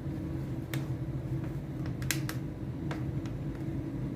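A few short, sharp plastic clicks as the locking latches of an LED TV's frame are worked loose by hand, over a steady low hum.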